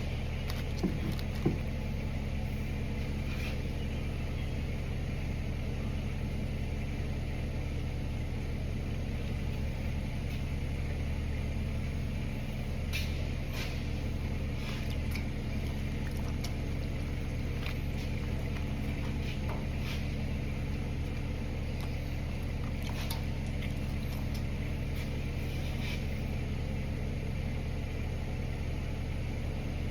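A steady, low machine hum runs throughout, with a few faint scattered clicks and two sharper knocks about a second in.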